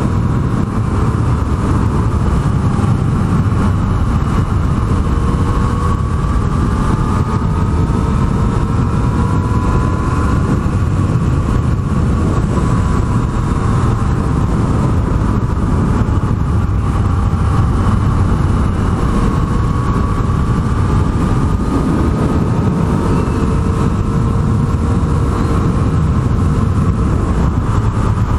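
Yamaha MT-09's inline three-cylinder engine running on the move, its pitch slowly rising and falling, under heavy wind noise on the microphone.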